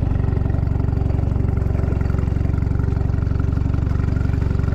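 A boat's outboard motor running steadily at low speed, with an even pulsing throb, as the boat is eased into position.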